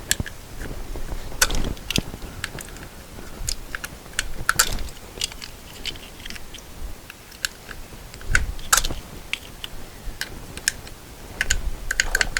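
Irregular small clicks and scrapes of a metal pick prying the little caps off a wheel's lug bolts, with a few louder snaps scattered through.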